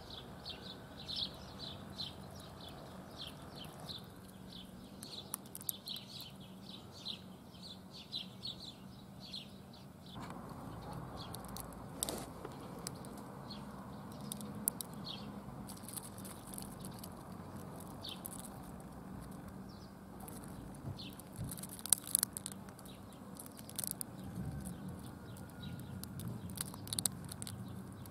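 Birds chirping in quick short notes, busiest in the first part, with a few sharp clicks now and then over a faint steady hum.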